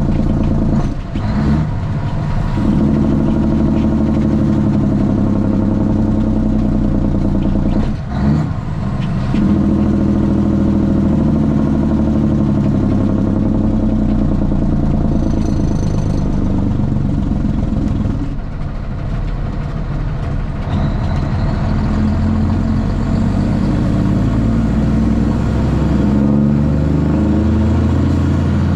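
Straight-piped Cummins ISX inline-six diesel in a Kenworth T800 running under load, its pitch changing through gear changes, with short drops in loudness about a second in, around eight seconds in and around eighteen seconds in.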